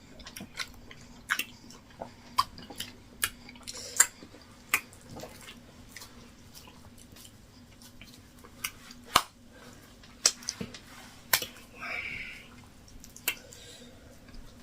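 Wet mouth clicks and lip smacks of people eating yam fufu with vegetable soup, scattered irregularly, over a faint steady hum.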